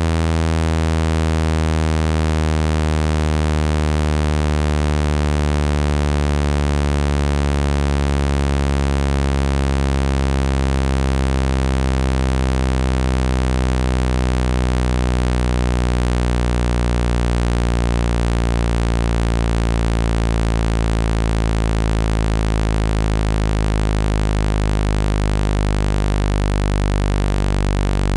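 A low electronic tone of the kind used to shake water out of a wet phone speaker: a steady, loud hum with many overtones, slowly drifting in pitch.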